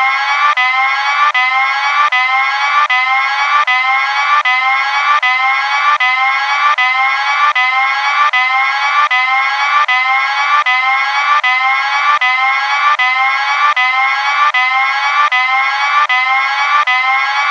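Electronic alarm siren: a rising tone swept over and over, about two sweeps a second, cutting off suddenly near the end.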